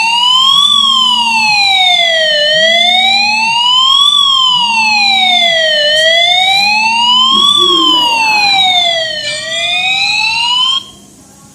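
Electronic siren-like wail, sweeping steadily up and down in pitch about every three and a half seconds, with a low short tone pulsing beneath it about every second and a half in the first half. It cuts off suddenly near the end.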